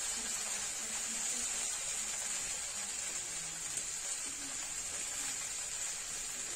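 Chopped okra and onions sizzling steadily as they fry in a kadhai.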